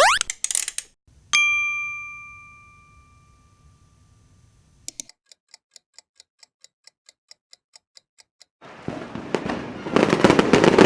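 A run of stock sound effects: a single bright ding that rings out and fades, then even clock ticking at about four ticks a second, then dense crackling pops like fireworks near the end.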